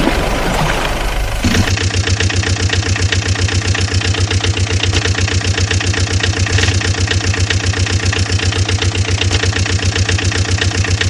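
Engine idling with an even, rapid chugging that comes in abruptly about a second and a half in and cuts off suddenly at the end.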